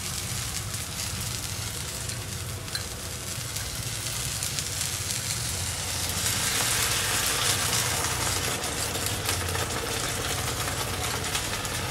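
Eggplant halves sizzling in oil in a frying pan; the sizzle gets louder and brighter about six seconds in, over a steady low hum.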